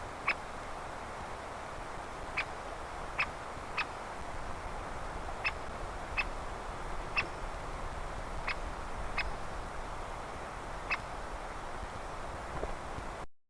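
A woodpecker giving short, sharp single calls, about ten of them at uneven intervals, over a steady hiss of wind.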